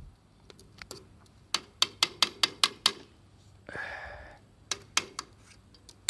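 A quick, even run of about seven sharp taps, roughly four or five a second, then a brief rustling burst and three more taps.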